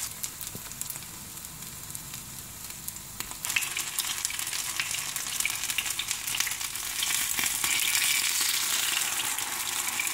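Potato patties (aloo tikki) shallow-frying in hot oil in a pan: a steady sizzle with fine crackling that grows louder about a third of the way in.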